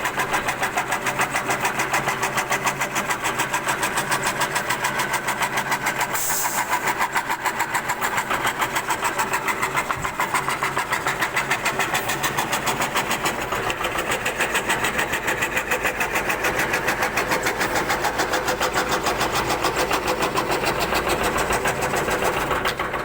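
CNC wood carving router running, with a rapid, even pulsing and several steady tones; it cuts off near the end.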